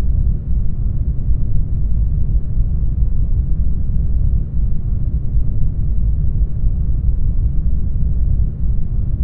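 Brown noise: a steady, deep hiss with most of its weight in the low end and little treble, unchanging throughout.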